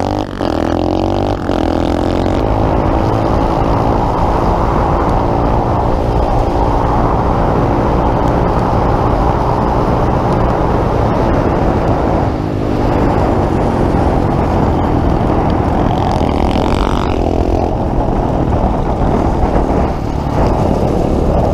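Pit bike engine running while riding, its revs rising and falling, with a dense rush of noise underneath; the engine note eases off briefly about twelve seconds in and again near seventeen seconds.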